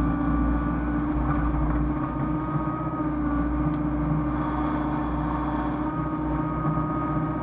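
Hyundai excavator's diesel engine running steadily, a low drone with a thin whine above it.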